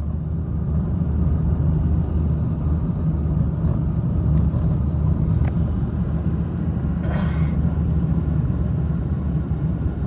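A loud, steady low rumble that sets in suddenly and holds, with a brief hiss about seven seconds in.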